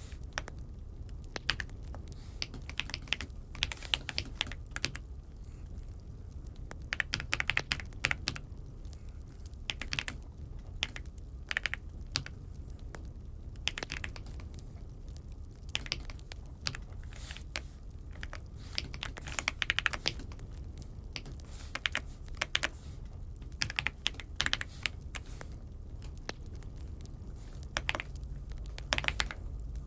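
Typing on an Aula F75 mechanical keyboard: irregular runs of key clacks with short pauses between them, over a steady low hum.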